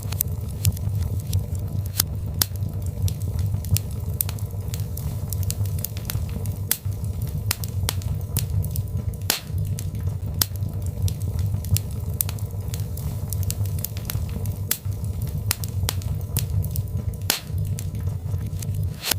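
Birch log fire burning in a fireplace: a steady low rumble of flames with frequent sharp, irregular crackles and pops.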